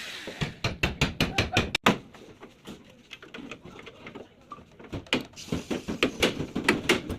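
Hammer tapping: a fast run of sharp knocks in the first two seconds, a quieter stretch, then another run of knocks near the end.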